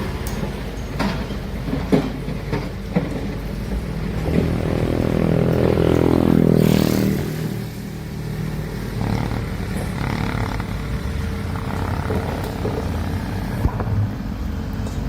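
Heavy excavator's diesel engine working. It revs up under load in the middle and drops back, with a short hiss near the top, and there are several metallic knocks in the first few seconds.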